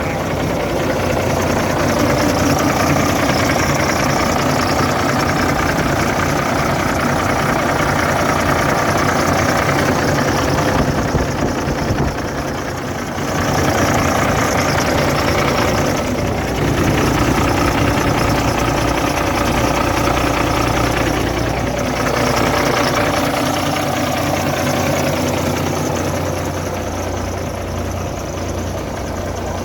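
2010 Peterbilt 387 truck's diesel engine idling steadily, its tone shifting a few times as the listening point moves around the truck.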